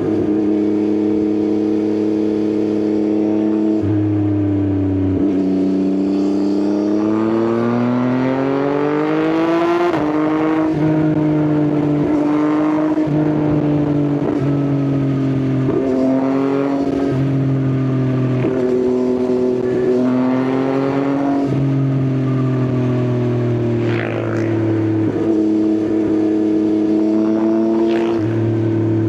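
Yamaha XSR900's inline three-cylinder engine breathing through an Akrapovič exhaust while riding. The engine note climbs steadily for several seconds in the first third, then settles and rises and falls a little at cruising revs.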